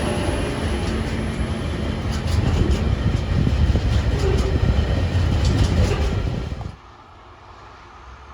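Freight train passing close by: a heavy low rumble with scattered rail clicks, growing louder midway, then cut off abruptly about two-thirds of the way in, leaving only faint background sound.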